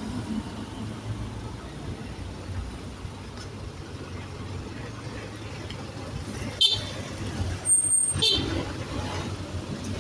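Trans Jogja city bus engines running with a steady low rumble. In the second half come a few short, sharp, loud sounds, one carrying a brief high whistle.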